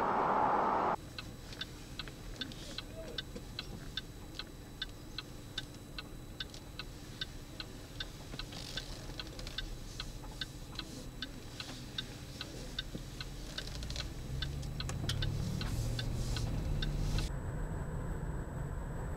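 A car's turn-signal relay ticking steadily, about two to three clicks a second, over low engine and road rumble in the cabin. The rumble grows louder near the end as the ticking stops.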